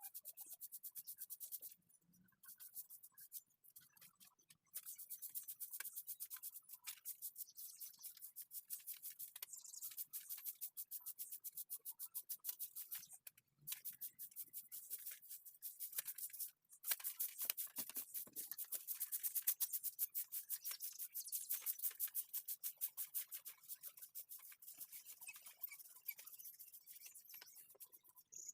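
Rapid, rhythmic back-and-forth strokes of a drawing or painting tool scratching on paper, in long runs broken by a few short pauses.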